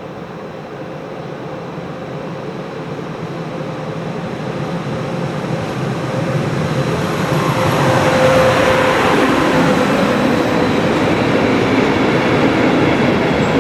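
A DB Class 151 electric locomotive hauling a fully loaded container train. It grows steadily louder as it approaches over the first eight seconds or so, then keeps up a loud, steady rolling noise of wheels on rail, with a faint steady whine, as the train goes by.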